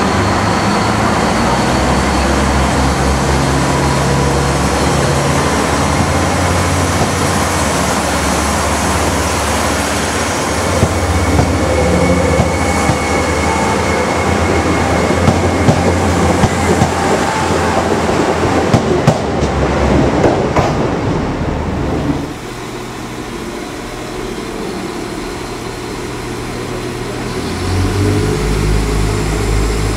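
Diesel train running, with a steady engine hum that steps in pitch and a run of clicks from the wheels over rail joints or points through the middle. The sound drops in level about two-thirds of the way in and rises again near the end.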